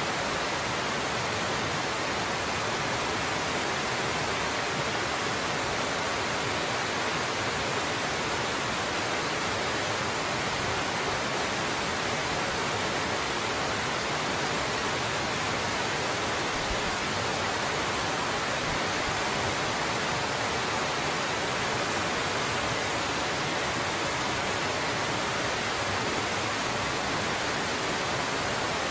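Waterfall pouring with a steady, even rush that does not change.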